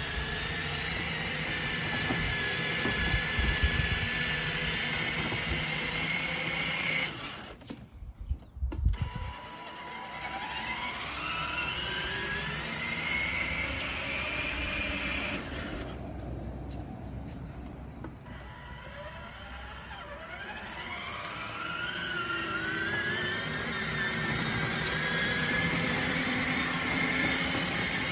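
Battery-powered toy truck running, its whine rising and falling in pitch like an engine revving as it speeds up and slows. It drops out briefly twice, around a quarter and halfway through.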